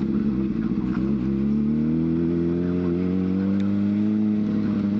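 2003 Honda CBR600RR's inline-four engine pulling under acceleration: its pitch dips briefly about a second in, rises steadily for about three seconds, then falls near the end.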